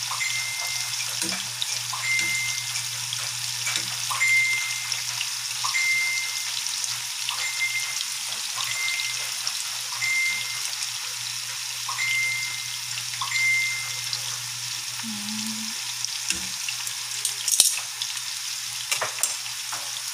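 Battered squid rings deep-frying in a pan of oil: a steady crackling sizzle, over a low steady hum. A short high tone repeats about once a second through the first two-thirds.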